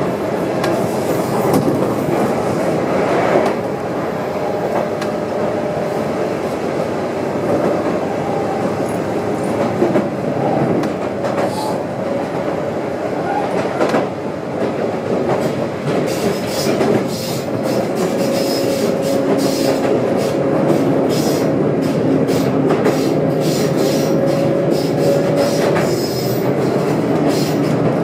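Sotetsu 9000 series electric train running along the line, with a steady motor whine and wheels clicking over rail joints. The clicks come thicker from about halfway through.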